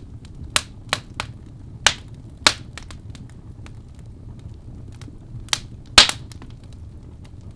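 Wood fire burning in a fireplace, crackling with irregular sharp pops over a steady low rumble; the loudest pop comes about six seconds in.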